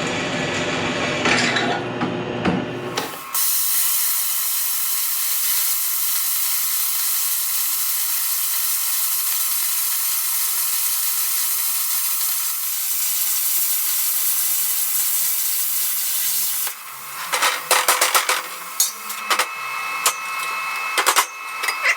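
A power tool runs for about three seconds and stops. A plasma cutter then hisses steadily through aluminium plate for about thirteen seconds. A run of sharp knocks follows near the end.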